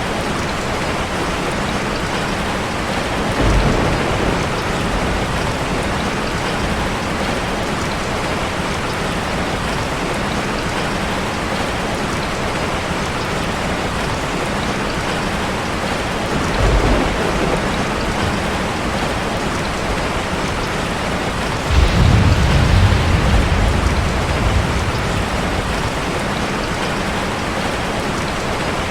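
Steady rush of falling water from a waterfall, an even dense hiss. Low rumbles rise through it three times: briefly about 3 seconds in and again near 17 seconds, then louder and longer about 22 seconds in.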